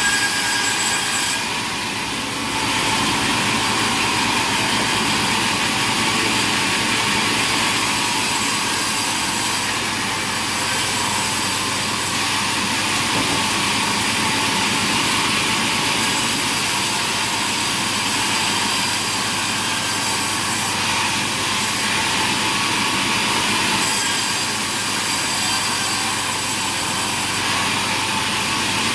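Sawmill saws cutting timber over the steady running of mill machinery. The sound changes abruptly several times.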